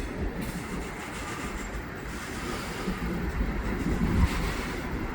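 Freight cars of a slow-moving freight train rolling past, their wheels rumbling steadily on the rails.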